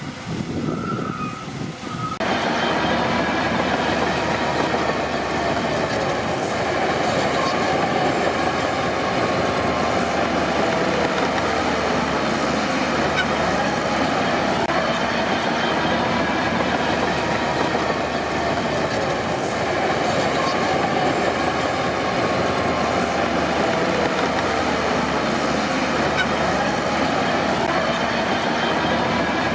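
Crawler bulldozer working: its diesel engine runs under load while the steel tracks clank and squeal in a wavering, drawn-out whine. The sound jumps much louder about two seconds in.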